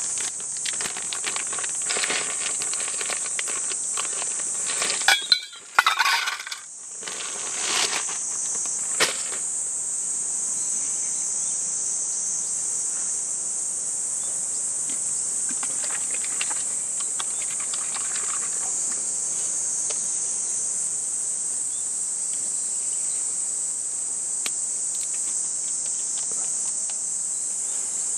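Steady high-pitched drone of summer insects, with a few clinks and knocks about five to nine seconds in.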